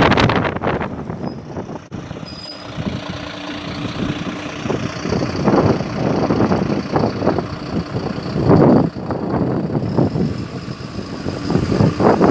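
Storm wind buffeting the microphone in uneven gusts, loudest about eight seconds in and again near the end.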